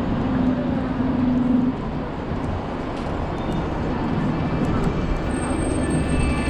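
Urban street traffic: vehicles running past, with a steady engine hum in the first second or two and a thin high whine coming in near the end.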